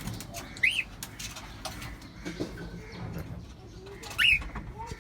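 Pet cockatiels calling: a few short whistled chirps that rise and fall in pitch, one about a second in and another near the end, with softer low sounds between.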